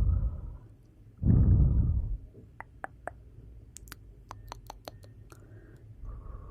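Wood fire in a fireplace: a low rushing rumble swells and fades twice, then a run of sharp crackles and pops follows through the middle, and the rumble comes back near the end.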